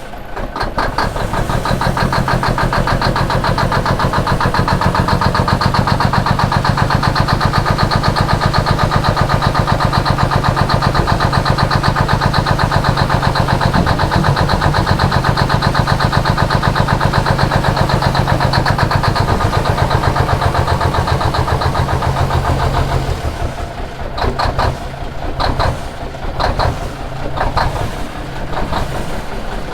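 Big Cam 400 Cummins inline-six diesel of a 1976 Kenworth W900A being cranked by its starter on a cold start, a fast even chugging that goes on for over twenty seconds. About 23 seconds in it changes to uneven, stumbling firing as the cold engine starts to catch.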